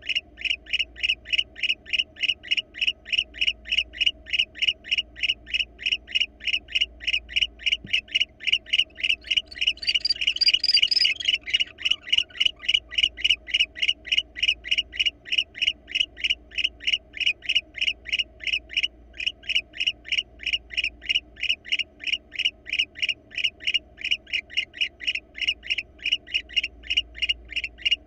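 An animal call repeated in a rapid, even series of short chirps, about three or four a second, over a faint steady hum. About ten seconds in a louder, noisier call lasts for about two seconds.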